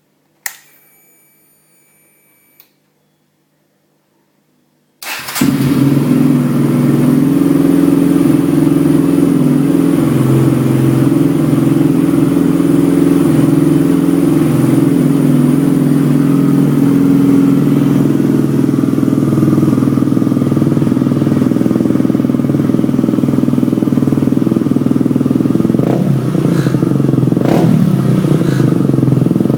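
Kawasaki KLX/D-Tracker 125's single-cylinder four-stroke engine breathing through a Racing Spec stainless steel exhaust: after a click and a faint brief whine, the engine starts about five seconds in and idles steadily, with two short blips of the throttle near the end.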